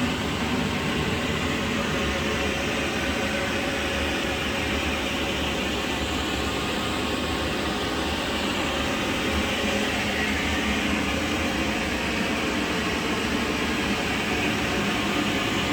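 A motor-driven machine running steadily, a constant rushing hiss over a low hum, with no change in speed.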